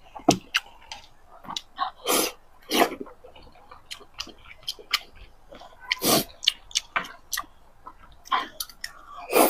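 Close-miked chewing of braised pork belly: a run of short mouth clicks and smacks, with a few louder chews about two, three and six seconds in.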